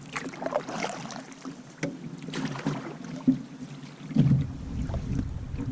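Canoe being paddled into a headwind: irregular paddle strokes and water splashing and slapping against the hull, with wind buffeting the microphone from about four seconds in.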